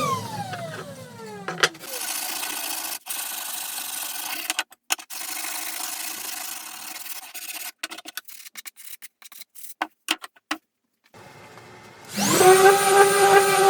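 A whining workshop power tool spins down and stops at the start; then come rough rubbing strokes on wood, broken by short gaps and sharp clicks. Near the end a power tool starts up with a rising whine and settles to a steady high pitch.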